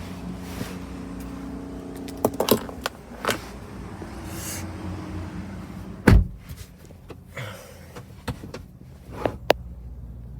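A few clicks and knocks inside a car's cabin, then one heavy low thump about six seconds in, over a steady low hum of background traffic.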